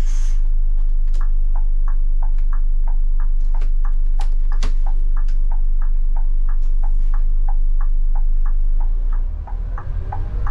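Scania K250IB bus's diesel engine idling with a low, steady rumble, while a relay ticks evenly about three times a second, typical of the turn signal. A short air hiss comes at the start, there is a single sharp knock about halfway, and the engine note dips and changes near the end.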